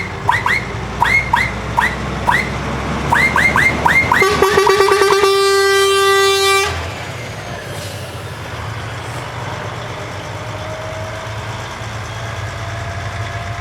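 Truck horns sounding: a quick series of short rising toots, then one long, fluttering horn blast of about two and a half seconds that cuts off sharply, over a truck engine running.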